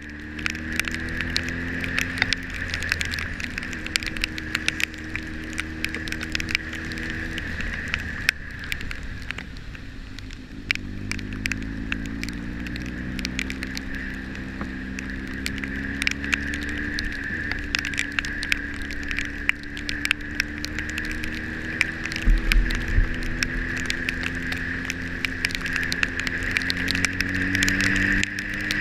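Motorcycle engine running on the road, its pitch rising as it pulls, holding steady, dropping off about eight seconds in and rising again, with wind rush and a steady stream of sharp ticks of rain striking the camera.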